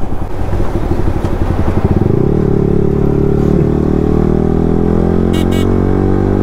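Yamaha R15 V3's single-cylinder engine under way, uneven at first, then from about two seconds in pulling with revs climbing slowly. A short high-pitched beep sounds about five seconds in.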